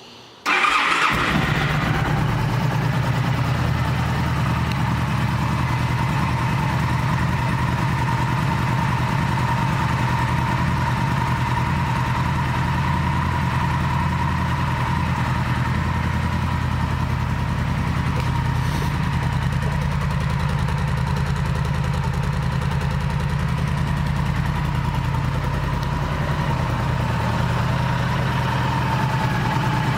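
2008 Yamaha V Star 1300 Tourer's V-twin engine starting about half a second in, then idling steadily.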